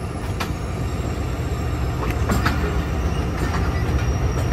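Passenger train rolling out through a station yard: a steady low rumble of the locomotive and coaches, with irregular sharp clicks of wheels over rail joints and points, several close together about two seconds in, and a faint high wheel squeal near the end.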